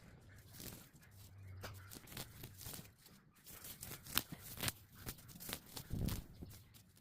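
Nettles and other weeds being pulled up from the soil by hand: irregular rustling, tearing and crackling as stems and roots rip out.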